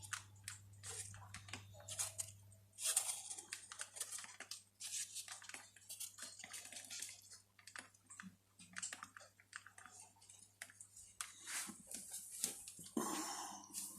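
Irregular crackling and snapping of wood burning in a fireplace, with a faint low hum that stops about three seconds in.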